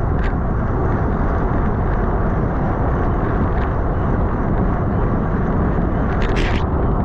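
Steady low rush of wind buffeting the microphone of a camera riding on a racing bicycle at speed, with a brief sharper noise about six seconds in.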